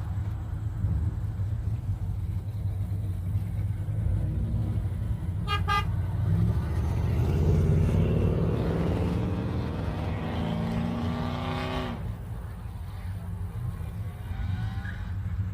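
Car engines rumbling as show cars drive out of a parking lot. A short horn toot comes about five and a half seconds in, then one car passes louder, its engine rising in pitch as it accelerates, and drops off abruptly about twelve seconds in.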